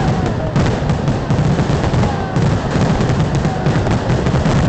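Fireworks going off in rapid, dense succession: a steady stream of bangs and crackles over a low rumble, with a few faint whistles.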